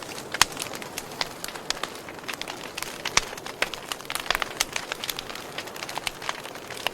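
Wood fire crackling: a steady hiss with frequent sharp pops, a louder one about half a second in and another about three seconds in.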